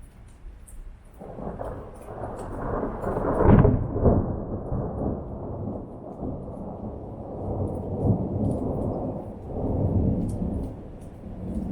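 Thunder rolling during a thunderstorm: a deep rumble builds about a second in, reaches its loudest peal a couple of seconds later, then rolls on in further swells.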